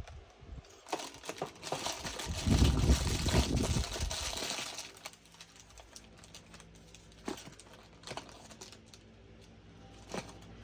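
Plastic packaging crinkling and rustling as it is handled for a few seconds, followed by a few light clicks and taps.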